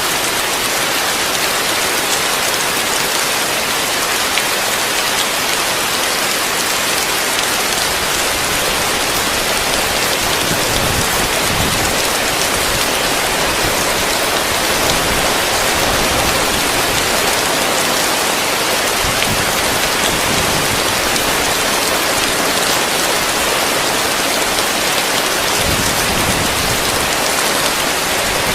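Heavy rain drumming steadily on a roof, a dense, even hiss of countless drops. A few soft low swells rise underneath it about a third, two thirds and nine tenths of the way through.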